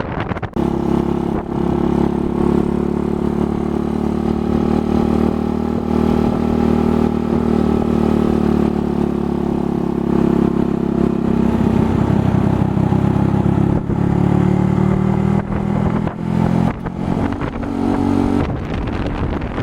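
Motorcycle being ridden, its engine running in a steady drone whose pitch sags and rises a few times as the speed changes.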